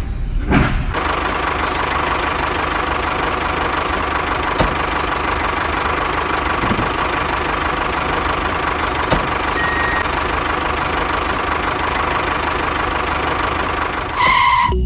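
An engine running steadily at a constant speed, with a sharp click about four and a half seconds in and another about nine seconds in. A brief high tone sounds near the end.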